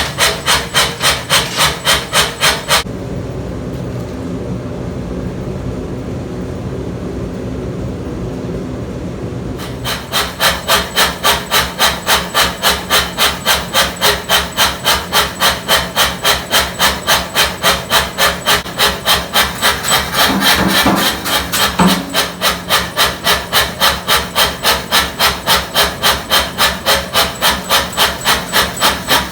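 Mechanical power hammer striking steel in a steady rhythm of about three blows a second while the hardy is being reforged. The blows stop for several seconds about three seconds in, leaving only the machine running, then start again.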